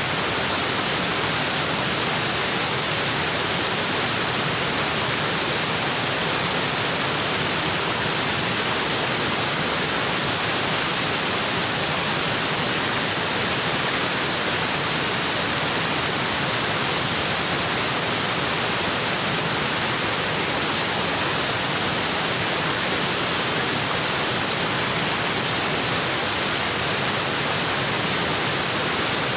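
Waterfall: water falling onto rocks, a steady, unbroken rush.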